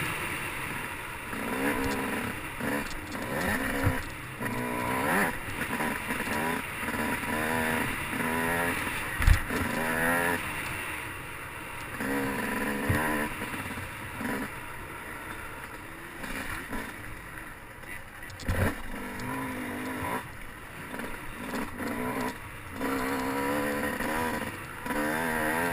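Motocross dirt bike engine revving up and falling back again and again as it is ridden, with two sharp thumps, the louder about a third of the way in.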